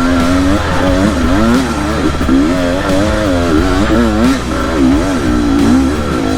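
Motorcycle engine revving up and down over and over, its pitch rising and falling about twice a second as the throttle is worked.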